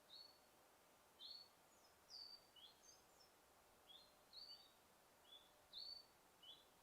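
Faint forest ambience: small birds chirping, a string of short, high chirps of varying pitch, one or two a second, over a soft steady hiss.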